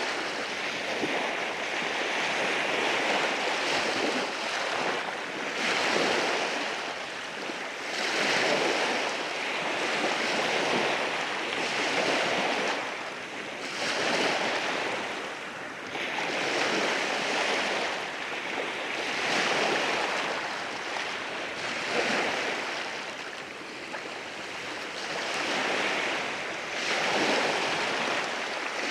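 Waves breaking and washing over a rocky shore, the surf swelling and easing every few seconds with a steady hiss between.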